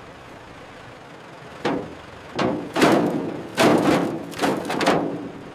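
A series of about six heavy thuds and knocks starting about a second and a half in, each followed by a short ringing tail.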